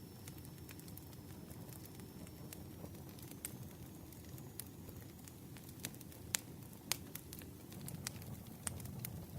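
Campfire burning: a steady low rumble of flames with scattered sharp crackles and pops from the wood, and a few louder pops in the second half.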